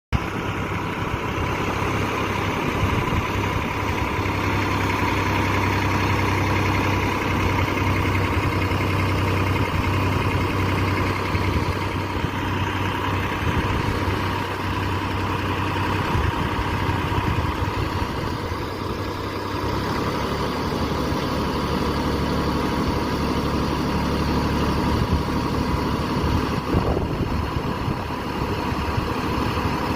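Tractor engine running steadily, its note shifting about two-thirds of the way through.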